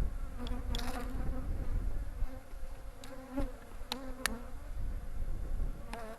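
Honeybees buzzing in a dense, wavering hum over a well-populated open hive, with a few sharp clicks during the hum.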